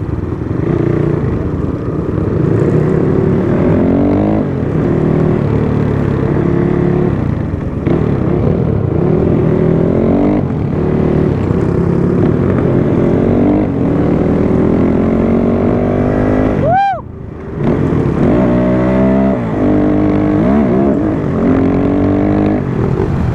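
Dirt bike engine being ridden hard, its pitch climbing and dropping back again and again as it revs up through the gears. About two-thirds of the way through there is one sharp, high rev that falls away, then the sound briefly drops before the engine picks up again.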